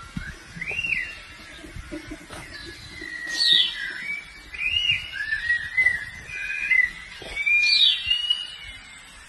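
Birds calling: a whistled call that sweeps sharply down in pitch, repeated about every four seconds, with wavering whistles in between, over a low rumble.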